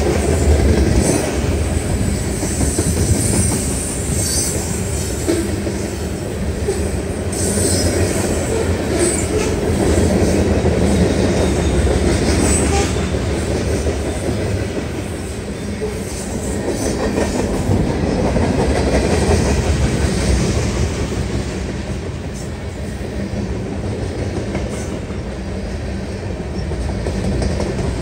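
A train rolling past on the rails, a loud steady rumble of wheels on track that swells and eases slightly, with brief high-pitched wheel squeals in the first several seconds.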